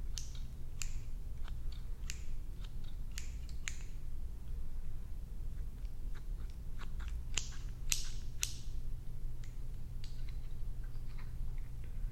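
Close-up scissors snipping: short, crisp snips at irregular spacing, a few close together, over a steady low hum.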